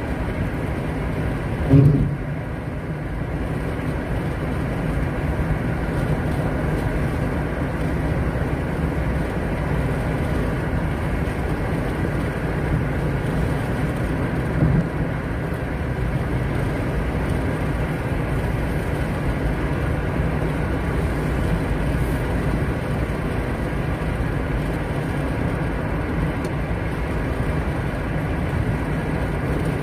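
Car on the move: steady engine and road noise, with a short knock about two seconds in and a lesser one midway.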